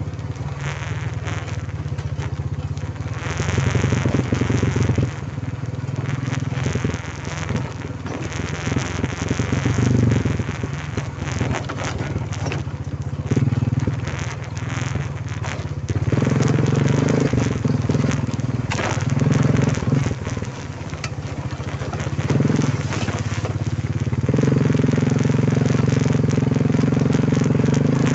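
Quad bike engine running under way, its note shifting with the throttle, with rough noise over it; it gets louder about halfway through and again near the end.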